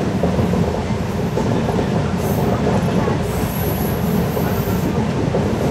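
LHB passenger coach running at speed, heard from on board: a steady rumble of wheels on the rails.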